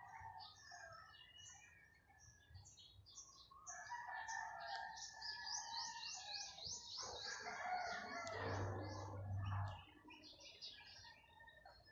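Birds chirping over and over, with a longer, louder call from about seven seconds in that lasts some three seconds.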